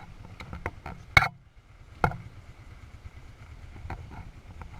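Light clicks and two sharp knocks, about a second and two seconds in, from handling parts of an ATV while it is checked over, over a low steady rumble.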